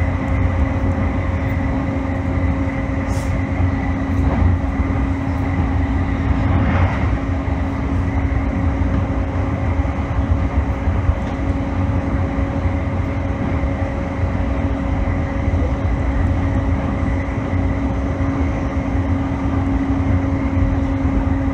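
A JR East E531 series electric train running at steady speed: a constant low rumble of wheels on rail with a steady hum from the drive.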